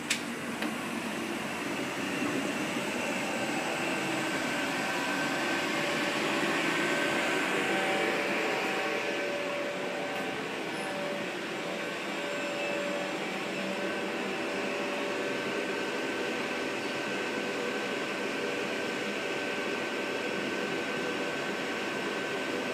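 Electric multiple-unit train running through the station under overhead wires: a steady rushing rumble with a faint whine of traction motors, swelling about seven seconds in and then holding steady.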